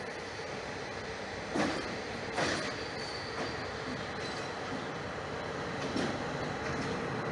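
Passenger train rolling past: a steady rumble of wheels on rails, with a few sharp clunks about a second and a half in, again a second later, and near the end.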